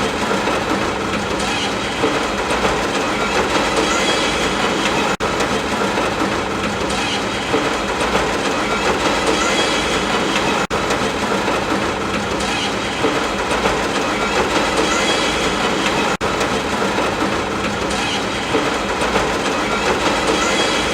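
Steady running noise of a train in motion, with a rail clickety-clack over a dense rumble. The sound dips for an instant about every five and a half seconds.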